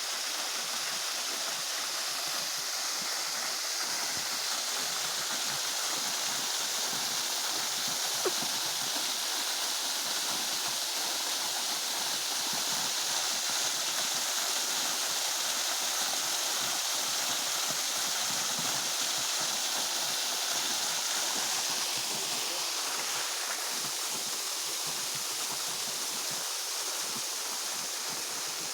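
Waterfall rushing and splashing in a steady, unbroken hiss of falling water, with a single faint click about eight seconds in.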